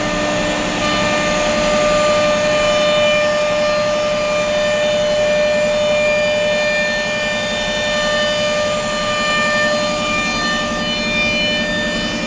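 CNC router spindle running with a steady high whine as it cuts a wooden door panel, over a rough cutting noise.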